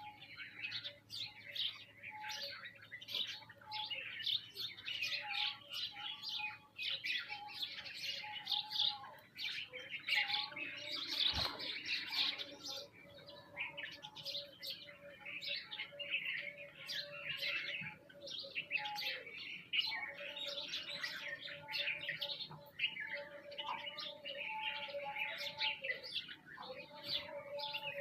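A flock of small birds, sparrows among them, chirping continuously in a dense, overlapping chatter. A single sharp click sounds about halfway through.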